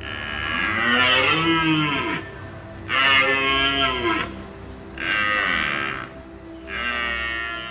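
Cow mooing four times, each call a second or two long, over faint steady background music.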